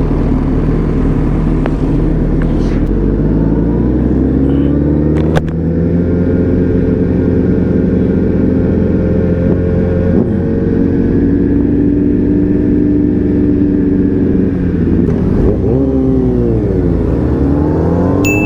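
Motorcycle engine under way: it accelerates, with the pitch climbing about three to five seconds in, then runs at a steady cruise. Near the end the revs drop and then climb again.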